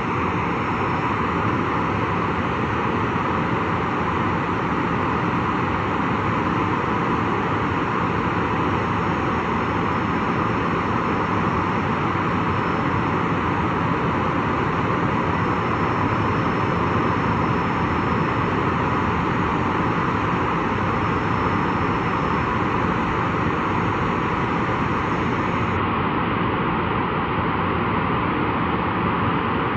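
Boeing 737-400's CFM56-3 turbofan engine running steadily at idle during a ground run-up: an even rush with a faint high whine.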